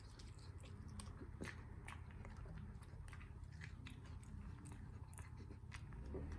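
A dachshund chewing and biting food, with many irregular, sharp crunchy clicks of its teeth, several a second.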